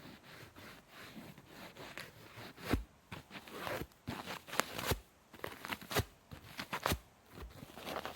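Sponge being squeezed and crushed by hand, with dense crackling and crunching and four sharper, louder snaps spread through the middle.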